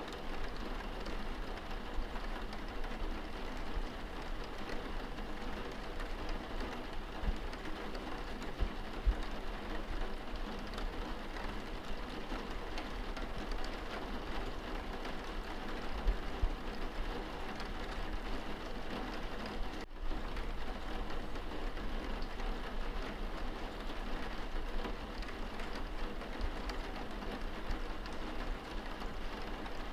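Steady rain pattering on window glass, heard from indoors. A few louder low knocks come about a third and half of the way through.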